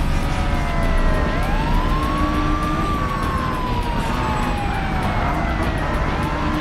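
Ambulance siren wailing, a slow rise in pitch followed by a long slow fall, then rising again near the end, over a steady low rumble.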